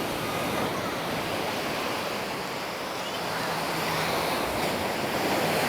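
Small sea waves washing up on a sandy beach, a steady rushing wash that swells and eases slightly.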